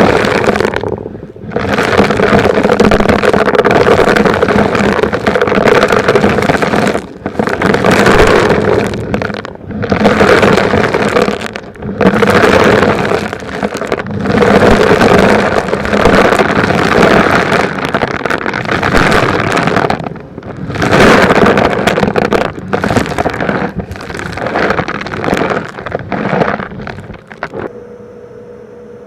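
Vacuum cleaner running and sucking up small rocks and grit, a dense rattling, scraping rush over a steady motor hum, in surges with brief dips every few seconds. Near the end the debris noise drops away, leaving the motor running alone.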